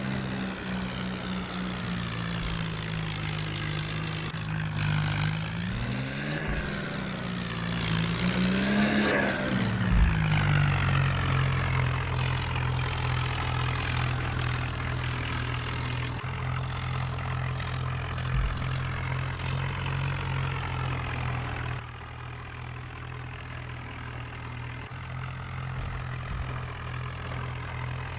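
Swaraj 855 tractor's three-cylinder diesel engine running, revved up twice in the first ten seconds and then settling into a steady idle; it gets somewhat quieter about three-quarters of the way through.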